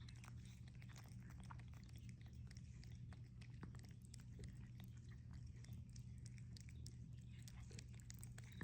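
Cats licking and chewing a lickable cat treat, faint and rapid: many small wet clicks and smacks, over a low steady hum.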